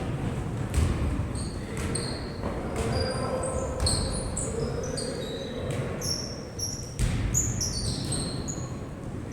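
Basketball bouncing on a court, several sharp knocks, with many short high-pitched sneaker squeaks from players moving.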